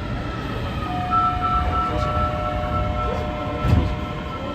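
Kita-Osaka Kyuko 9000 series subway train running, most likely pulling away from a station: a low rumble of wheels on rail, with a steady electric motor whine in two tones that comes in about a second in, and a single thud a little under four seconds in.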